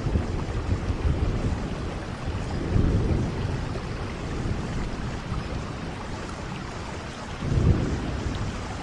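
Steady rain, with two low rumbling swells, about three seconds in and again near the end.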